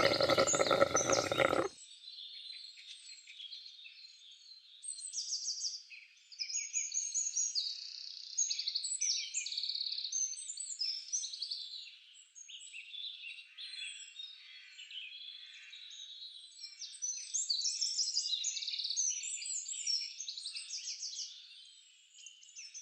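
A chorus of small birds chirping and trilling, many short high calls and rapid trills overlapping. A louder, fuller sound with steady tones cuts off abruptly under two seconds in.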